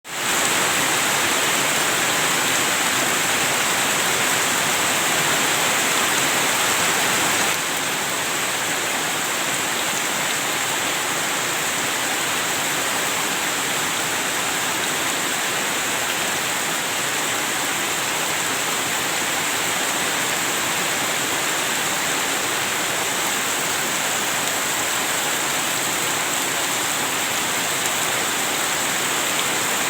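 Heavy rain pouring down in a steady, dense hiss, stepping down slightly in level about a quarter of the way in.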